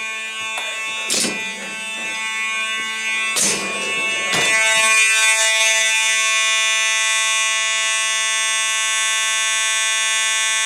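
Simplex 2901-9838 fire alarm horn, a vibrating horn, sounding continuously as one harsh, steady buzzing tone. Two knocks sound over it early on, and it grows louder at about four and a half seconds in, then holds steady and loud.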